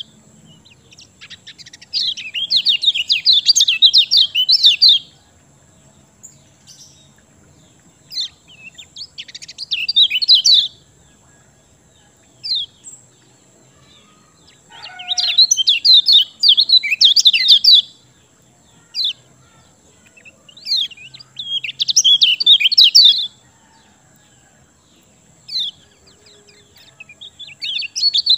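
Kecial kuning, a white-eye, singing in its full 'gacor' form: loud, rapid, high twittering phrases of two to three seconds, repeated every few seconds, with single short chips in the pauses.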